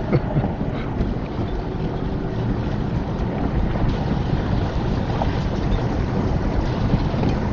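Steady low rumble of a four-wheel drive on the move while being towed out of a river crossing, with wind noise on the microphone.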